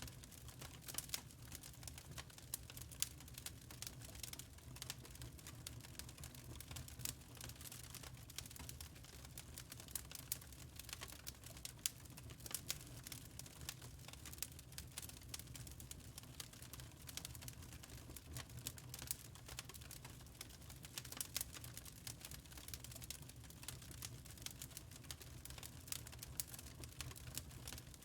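Wood fire crackling in a fireplace: a steady stream of small, irregular pops and snaps over a low, steady rumble.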